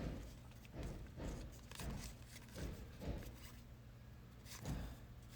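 Trading cards being handled and flipped through one after another: a run of soft slides and taps, sparser in the second half.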